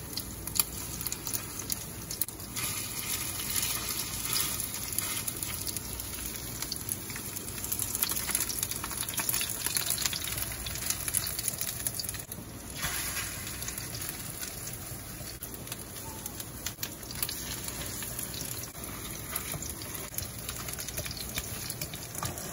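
Shrimp patties sizzling in hot oil in a nonstick frying pan: a steady hiss with light crackling of spitting oil.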